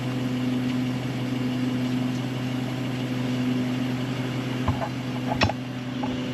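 An engine idling steadily, with a couple of brief clicks or knocks a little after the middle.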